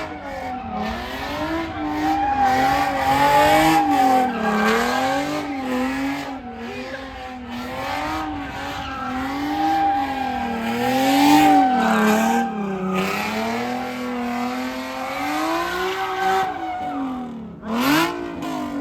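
Car spinning its tires: the engine revs up and down over and over under a steady tire squeal, with a quick sharp rev near the end.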